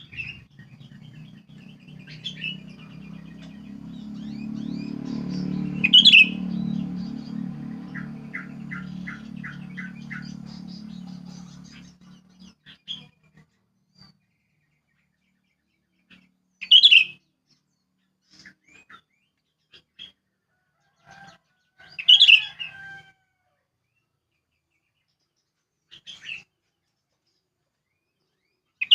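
Sooty-headed bulbul giving short, loud calls a few seconds apart, with fainter notes in between. A low steady rumble runs underneath for the first twelve seconds or so, then stops.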